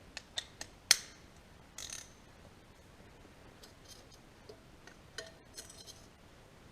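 Irregular sharp metal clicks and clinks from hand tools and small engine parts being handled while fitting the injection pump's bolts, the loudest single click about a second in, with small clusters of ticks around two seconds and near the end.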